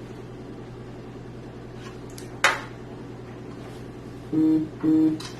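Handling noise from routing a case-fan cable to its motherboard header, with one sharp plastic click about halfway through. Near the end come two short, steady low tones in quick succession, then a fainter click. A steady low hum runs underneath.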